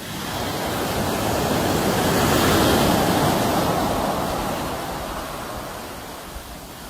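A sea wave surging in and breaking on the shore: a rush of surf that swells over about three seconds and then slowly washes out.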